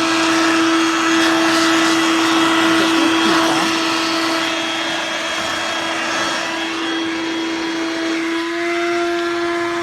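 Dirt Devil Vibe corded stick vacuum running steadily: a motor whine over the rush of air, its tone shifting slightly about eight and a half seconds in.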